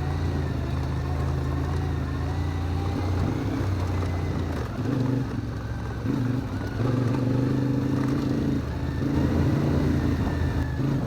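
CFMoto Ibex 450 MT's parallel-twin engine engine braking down a steep, rocky descent, held at a steady pitch for the first few seconds, then rising and falling as the throttle and revs change from about halfway on.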